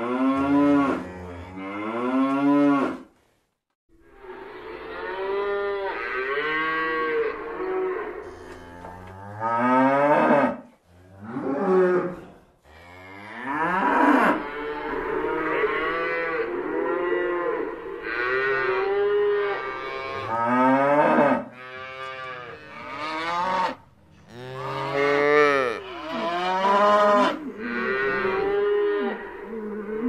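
Cows mooing, one call after another, many of them rising and then falling in pitch. There is a short break about three seconds in.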